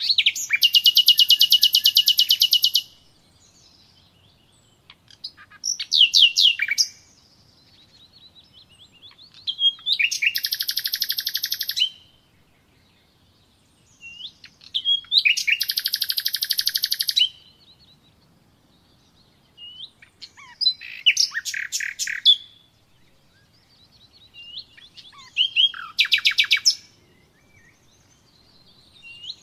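Songbird singing in separate phrases a few seconds apart. Three long, rapid, even trills of about two and a half seconds each alternate with shorter phrases of quick down-slurred notes.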